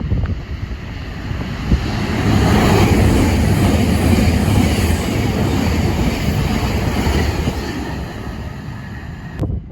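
A train running past along the platform: the rumble and rush of wheels on track builds over the first two seconds, is loudest for a few seconds, then eases off, and the sound cuts off abruptly near the end.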